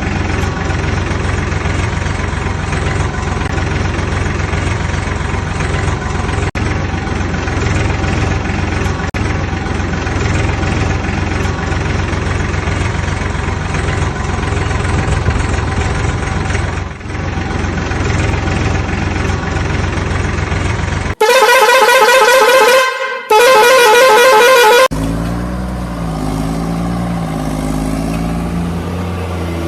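A steady droning background, then two loud vehicle-horn blasts with a warbling pitch, each a second or two long, about two-thirds of the way through.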